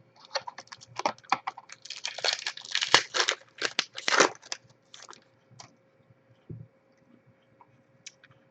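Trading cards being handled and flicked through by hand: a quick run of crisp rustles and snaps for about five and a half seconds, then a few faint clicks.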